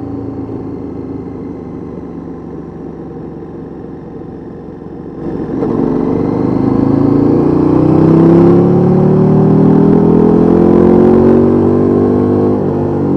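KTM 1290 Super Duke R's V-twin engine through a Mivv MK3 aftermarket exhaust, running steadily at first, then opening up about five seconds in: it gets much louder and the pitch climbs steadily for about seven seconds under throttle, dropping back near the end.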